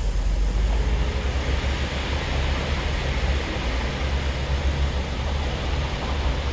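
Heavy diesel construction machinery running steadily: a deep, continuous engine drone with an even noise over it.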